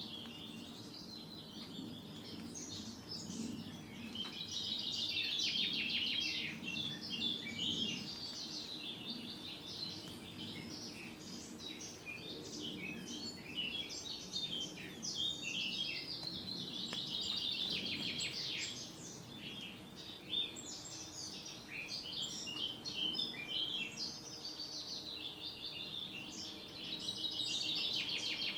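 Songbirds singing: a continuous chorus of quick, high chirps and trills, thicker in a few stretches, over a faint steady low rumble.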